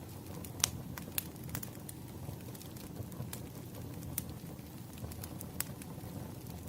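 Wood fire crackling: irregular sharp pops and snaps over a low, steady rumble of burning firewood.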